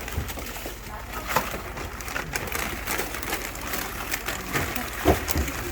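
Snack packages and their wrappers being handled and sorted: scattered crinkles and clicks, with a thump about five seconds in as something is set down.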